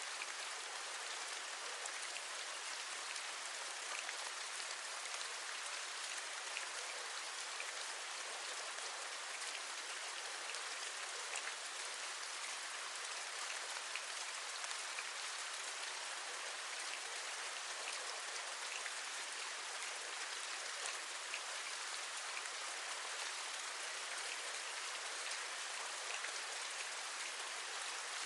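Steady rain falling, an even hiss with scattered drops tapping.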